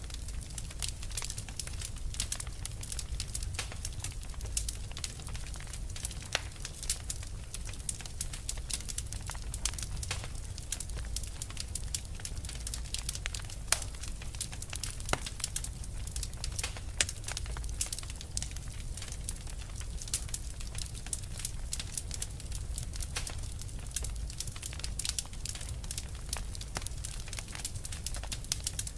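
Wood fire burning with a dense, continuous crackle of small sharp pops and snaps over a low steady rumble.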